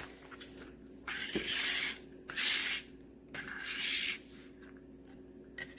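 Wax melts and their plastic packaging being handled: three rough rubbing, rustling sounds of about a second each, with a few small clicks.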